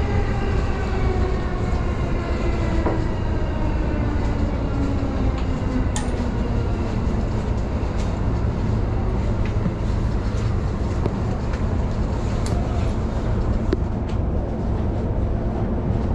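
JR Yokohama Line electric commuter train running, a steady rumble with a motor whine whose tones fall in pitch over the first few seconds. Afterwards there are scattered sharp clicks from the wheels and track.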